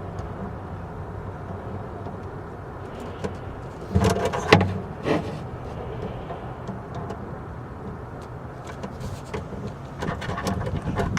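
Clattering and clicking of metal hand tools working on battery-cable terminals: a burst of knocks and clatter a few seconds in, scattered light clicks, and more clatter near the end, over a steady low hum.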